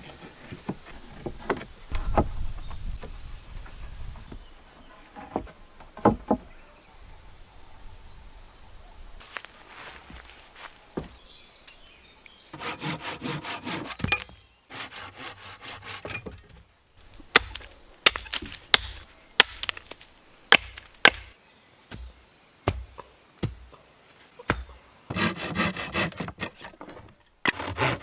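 Hand saw cutting wood in two bursts of quick strokes, about halfway through and again near the end, with scattered sharp knocks and clatter of wood in between.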